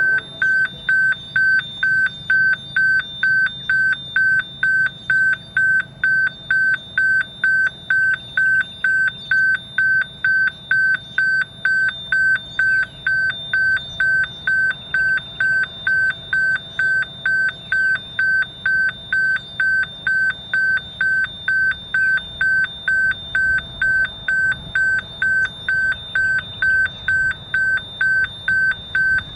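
Railway level crossing warning alarm sounding: an even electronic beep repeating about twice a second without a break, over a faint low rumble.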